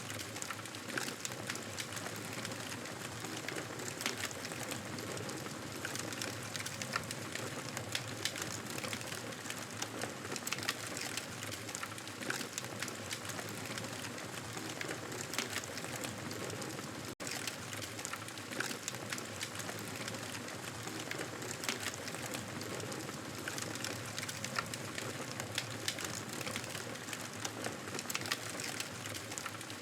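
Wood fire crackling in a fireplace: a steady hiss dotted with frequent small pops and snaps. The sound cuts out for an instant about seventeen seconds in.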